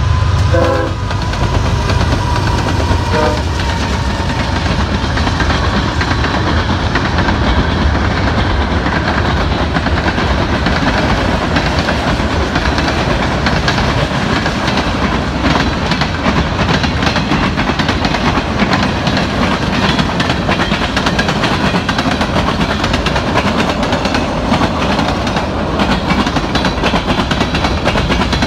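CSX freight train passing close by: the diesel locomotives' engines rumble past in the first couple of seconds, then a long string of freight cars rolls by with a steady wheel-on-rail rumble and rapid clacking over the rail joints.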